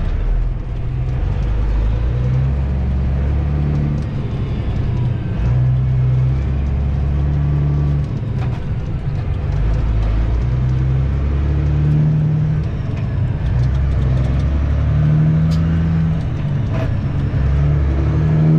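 Semi truck's diesel engine heard from inside the cab, pulling away and working up through the gears, its drone climbing and then dropping back at each shift every few seconds.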